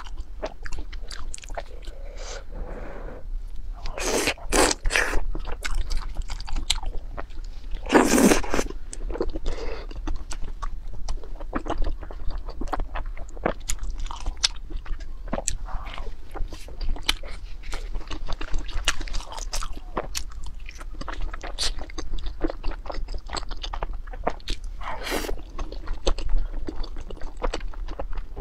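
Close-miked eating sounds of a person working through noodles and other food: steady chewing with many small wet mouth clicks, and a few louder bursts about four, eight and twenty-five seconds in.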